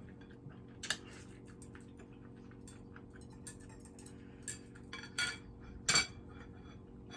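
Scattered light clicks and clinks of eating utensils against plates and dishes during a meal, a few louder ones near the end, over a faint steady low hum.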